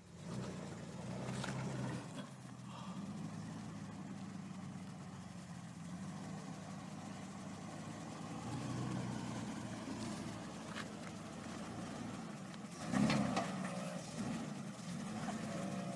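Jeep Wrangler engine running low and steady as it crawls over rocks, with a brief louder burst near the end.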